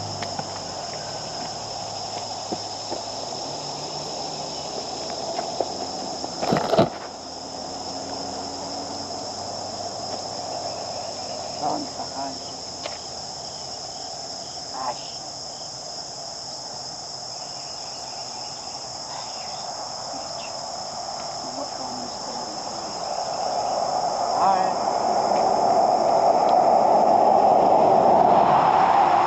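Steady high-pitched insect chorus over a low rushing hum, which grows louder over the last few seconds. A single sharp thump comes about seven seconds in.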